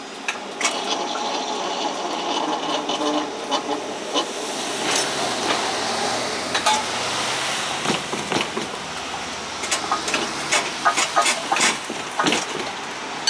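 Excursion train rolling past, its wheels making a steady noisy rumble and a run of sharp irregular clicks and knocks over the rail joints, heaviest in the second half.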